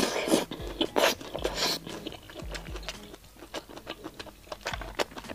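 A person biting and chewing saucy prawn meat: a run of wet mouth clicks, with louder bites in the first two seconds.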